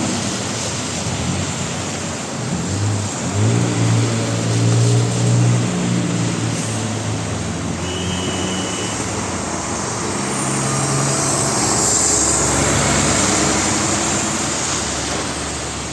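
Road traffic with trucks and cars passing: a truck engine's low hum swells from about three to six seconds in, and tyre and road noise builds near twelve seconds in.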